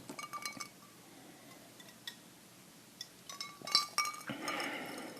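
Small hard objects clinking and tapping together, with a faint ring after each click: a burst of quick clicks at the start, a lone tick about two seconds in, and another burst around three and a half seconds in. A short rustle follows near the end.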